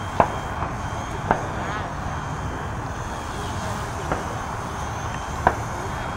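Radio-controlled helicopters flying, a thin motor whine over steady wind noise on the microphone, with four short sharp clicks.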